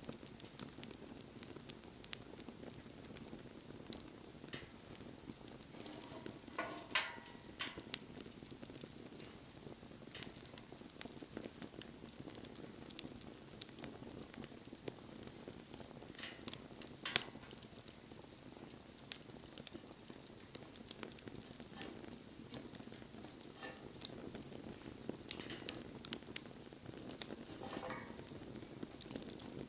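Wood fire burning with a steady soft hiss and scattered sharp crackles and pops, the loudest about seven seconds in, around sixteen seconds and near the end.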